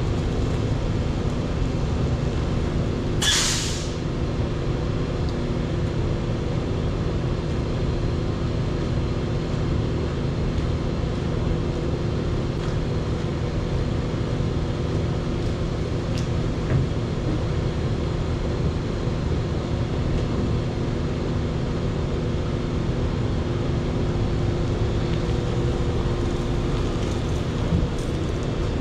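A motor running steadily at an unchanging speed, with a short, sharp hiss of air about three seconds in.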